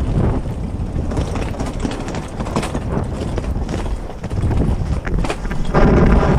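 Wind buffeting the microphone aboard a small sailboat under sail, a gusting rumble with scattered knocks and clicks. Near the end comes a brief, louder rattling buzz.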